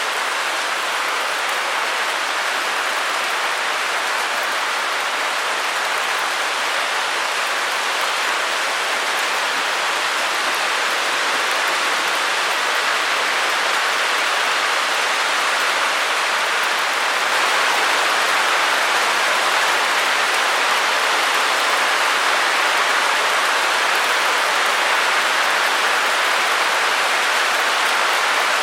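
Steady white-noise hiss with little bass and no breaks, stepping up slightly in level a little past halfway through.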